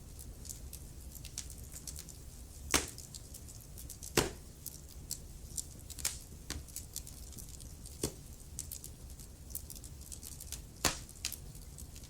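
Wood fire burning in a fireplace, crackling with irregular small snaps over a low rumble, and three sharp louder pops.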